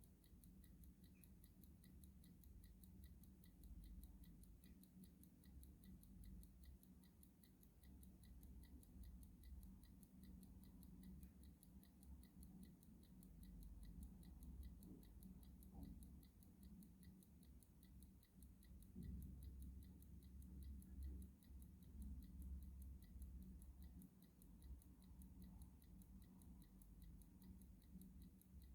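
Clock ticking faintly in an even, steady rhythm over a low rumble.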